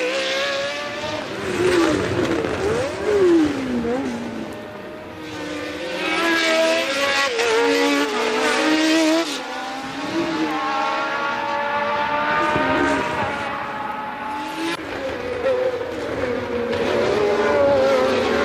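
Early-1980s Formula One race cars running at speed, several engines overlapping, their pitch falling and rising as cars go by and change gear.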